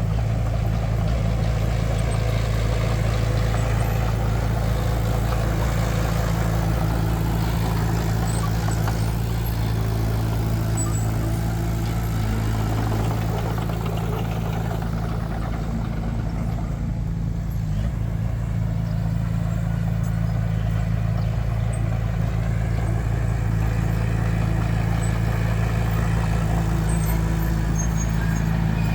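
Heavy diesel construction machinery engine running steadily at a constant speed, a continuous low drone.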